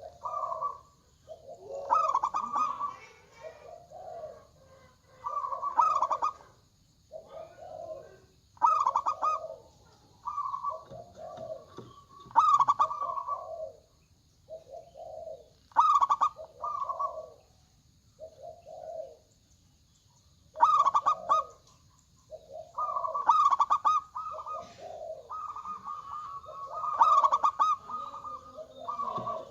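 Zebra doves (perkutut) cooing: rolling, trilled coo phrases repeat every second or two, and some run together into longer strings near the end.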